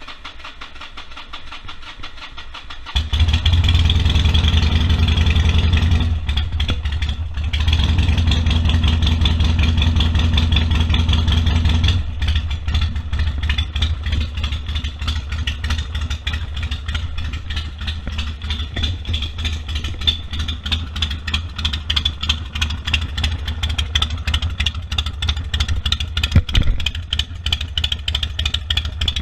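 Harley-Davidson Sportster 1200's air-cooled V-twin running. It comes up sharply louder about three seconds in, dips briefly around six seconds, and changes to a rougher, less bassy sound from about twelve seconds on.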